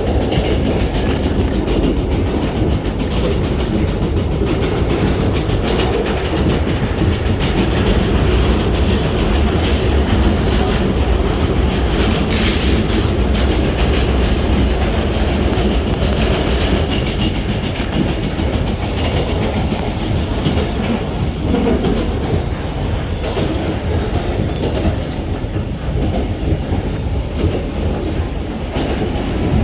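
Passenger train running along the track: steady wheel-on-rail noise from the moving carriage.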